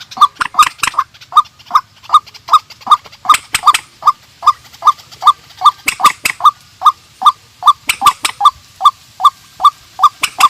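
Rail-family bird giving one short, slightly falling call note over and over, about two and a half times a second, with faint clicks between the notes.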